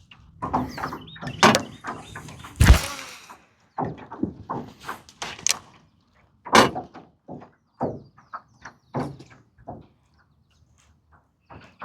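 Irregular knocks and clatter of things being handled, with one loud thump a little under three seconds in and scattered lighter taps after it.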